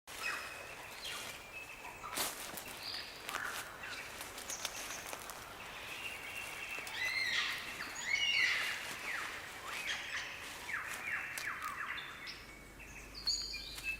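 Forest birdsong: many varied whistles, chirps and quick falling calls with sharp clicks, busiest about halfway through.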